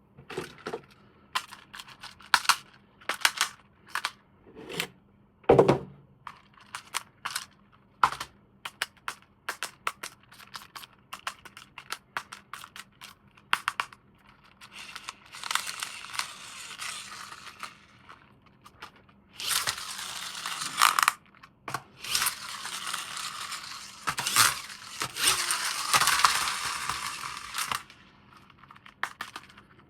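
Toy unboxing handling noise: a run of sharp clicks and taps of hard plastic parts, then from about halfway several long spells of crinkling, tearing plastic packaging.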